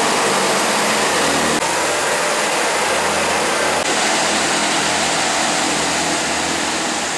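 Passenger trains idling at a station platform: a loud, steady engine and fan noise with a strong hiss, shifting slightly about one and a half and four seconds in.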